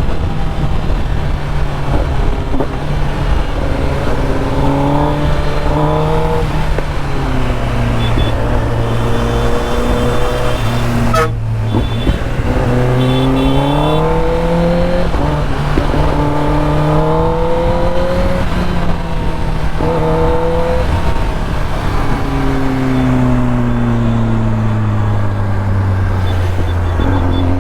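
Superbike engine heard from the rider's seat, climbing in pitch as it accelerates and dropping back at each gear change several times, over a steady rush of wind and road noise.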